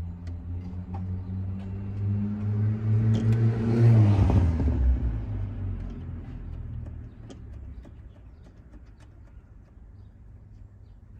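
A motor vehicle passing by, its engine and tyre noise growing to a peak about four seconds in and fading away by about seven seconds. Faint scattered clicks are heard alongside it.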